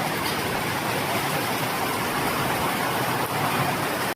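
Steady rushing noise with no pitch or rhythm, cutting off abruptly at the end.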